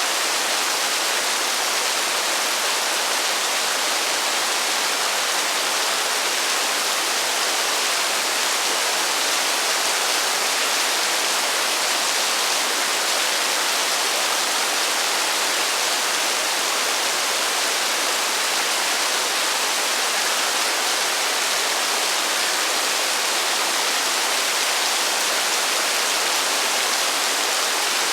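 Heavy rain falling steadily, an even hiss without thunder or any single drop or gust standing out.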